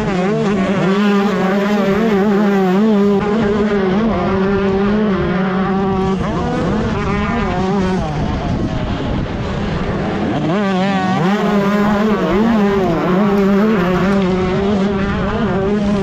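A 125cc two-stroke motocross bike's engine racing at high revs. The revs drop and climb back about six seconds in and again about ten seconds in, as for corners.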